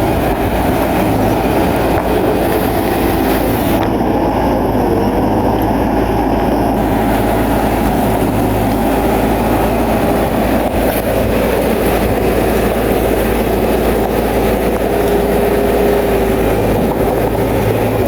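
Bulldozer's diesel engine running steadily at working revs, with the clatter of its steel tracks.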